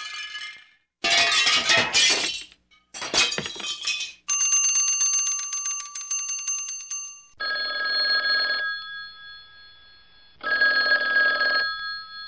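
A string of short sound effects dubbed over still photos: a few brief noisy clattering bursts, one with a sharp click. Then a bell rings clearly for about three seconds. Then come two rings of about a second each, about three seconds apart, with a steady ringing tone hanging on between them.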